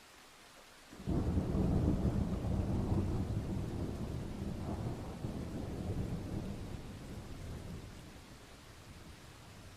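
A clap of thunder over steady rain: it breaks in suddenly about a second in as a loud low rumble, then rolls on and slowly dies away over several seconds, leaving the rain hiss.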